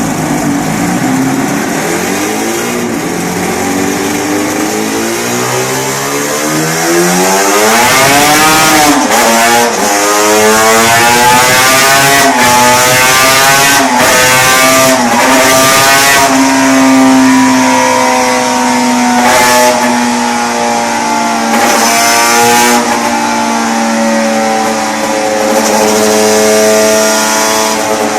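Two-stroke motorcycle engine accelerating hard. Its pitch climbs, drops back and climbs again several times in the first half, then holds a high, slowly rising note.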